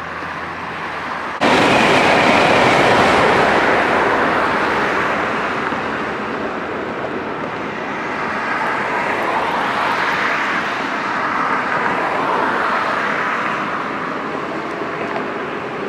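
Passing train's steady rush of wheel and rail noise, starting suddenly and loudly about a second and a half in, then swelling and easing as the train runs by.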